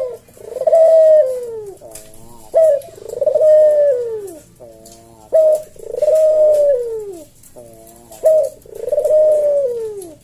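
A puter dove (domesticated ringneck or Barbary dove) singing its 'kuk-deruk' cooing song, four times at a slow, even pace. Each phrase is a short sharp note, a brief rolling note, then a long coo that falls away at the end.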